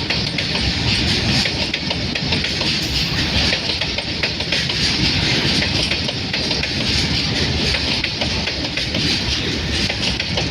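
A train running on rails: a steady rumble and hiss with many quick wheel clicks over the rail joints.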